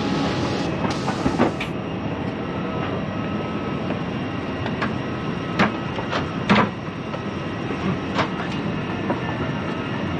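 Airliner cabin ambience during boarding: a steady rush of cabin air and machinery, with scattered sharp clicks and knocks through it.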